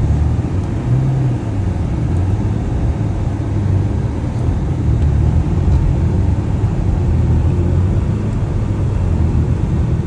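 BMW 335i's turbocharged straight-six and tyres running at a steady cruise, a continuous low rumble of engine and road noise.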